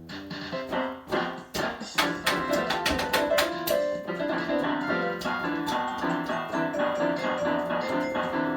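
Electronic keyboard played with a piano-like sound. The first notes are scattered; about two seconds in the playing gets louder, with quick hammered notes, then runs on as a busy stream of notes.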